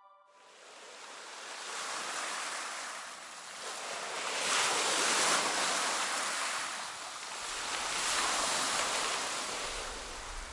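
Sea surf: waves breaking and washing up the shore in an even rushing noise that fades in and swells and ebbs about three times.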